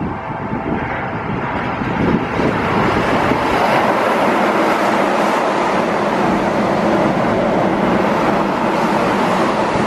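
Keihan 8000 series electric train running through a station without stopping: a loud, steady rush of wheels on rails that builds over the first two or three seconds as the train arrives alongside, then holds.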